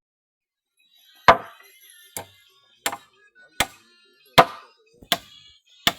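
Repeated sharp blows of a hand tool striking, one about every three-quarters of a second, starting about a second in: construction work, like chopping or hammering.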